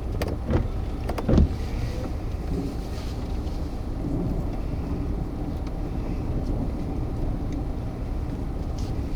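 Steady low rumble of a vehicle, with a few short knocks in the first second and a half.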